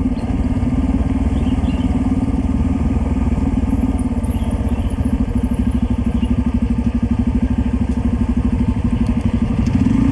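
Hero XPulse single-cylinder motorcycle engine running at low, steady speed, its exhaust beat pulsing evenly.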